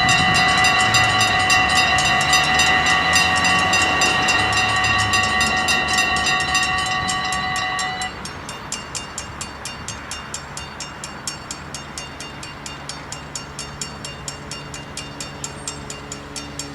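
A train runs through a Dutch automatic half-barrier level crossing, with a loud rumble and a steady high whine that cut off abruptly about eight seconds in. Throughout, the crossing's warning bells ring rapidly and evenly, and they stand out once the train has gone.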